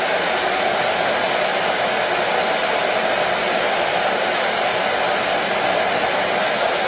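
Washing machine running with a steady, even whir and no knocks or changes.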